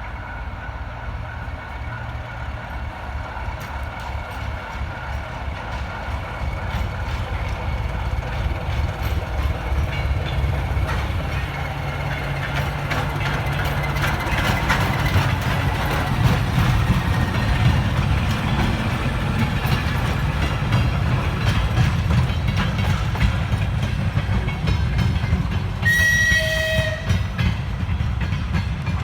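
A ChME3 shunting diesel locomotive's six-cylinder diesel engine running, growing steadily louder as it draws near. Near the end the locomotive gives one short horn blast, about a second long.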